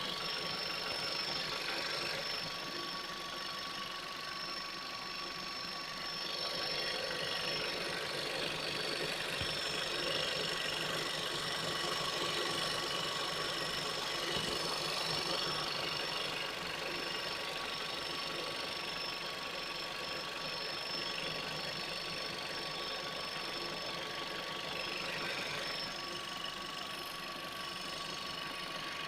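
Engine idling steadily, with a constant high-pitched whistle held over it; the whistle is an unidentified noise.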